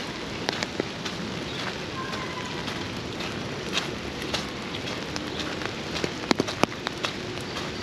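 Steady rain hiss with scattered sharp taps of drops landing close by, a quick cluster of louder taps about six seconds in.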